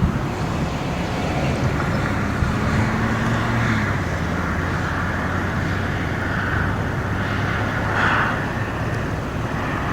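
Wind rushing over the microphone along with the steady hum of vehicle engines on the road, one of them fading out a little before halfway.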